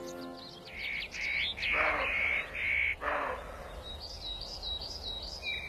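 Wild birds calling: a series of clear repeated notes, two harsh calls about a second apart, then a quick run of high chirps.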